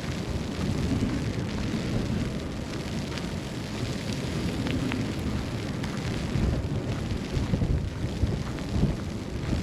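Snowstorm ambience on a city street: a steady, gusty low rumble of wind, with a few faint ticks.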